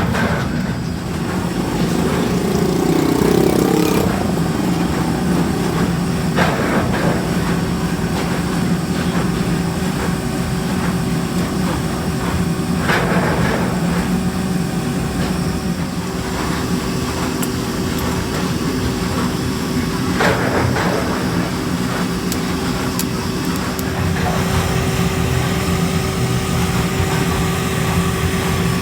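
Workshop machinery running steadily with a low hum, and three brief louder rasps spaced about seven seconds apart.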